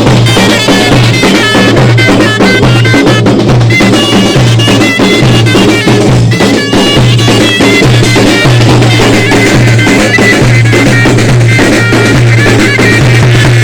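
Zaffa wedding-procession music: drums beating a steady rhythm under a high, reedy wind melody and a repeating low note.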